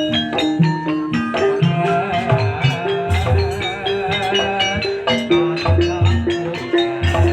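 Live Javanese gamelan music in campursari style: metal keyed instruments struck in a steady, repeating melodic pattern over low kendang drum strokes.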